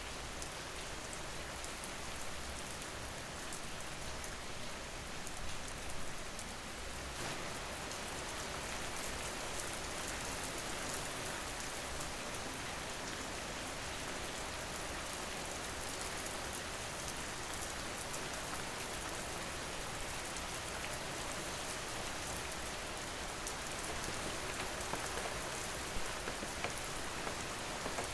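Steady rain falling: an even hiss with fine patter of drops and a few sharper ticks about five seconds in and near the end.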